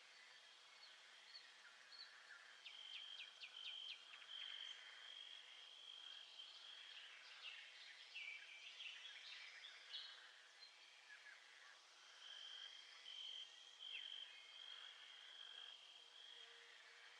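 Faint nature soundscape: a high, steady trill that breaks off and resumes, with birds chirping in quick clusters during the first half.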